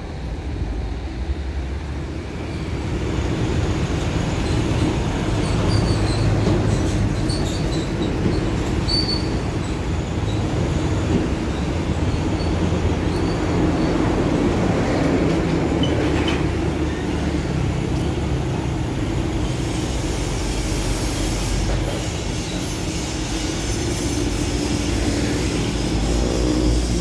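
Heavy mixer truck's diesel engine running, a steady low rumble that builds over the first few seconds, with occasional short high squeaks.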